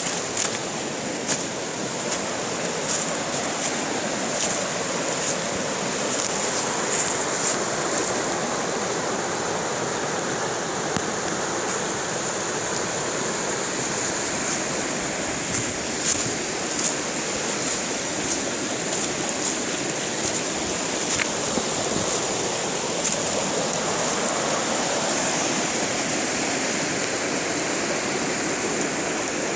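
River water rushing steadily over a riffle or rapids, with scattered brief ticks and splashes on top.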